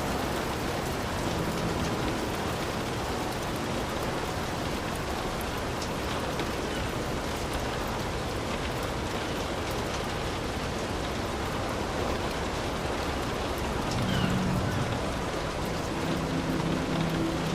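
Heavy rain falling steadily, a dense, even downpour. Low rumbles swell briefly about fourteen seconds in and again near the end.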